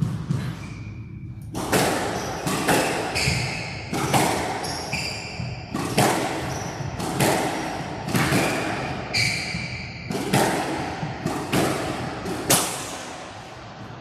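A squash rally: about a dozen sharp racquet-and-ball cracks against the walls, roughly a second apart, mixed with short high squeaks of court shoes on the floor, ending shortly before the end.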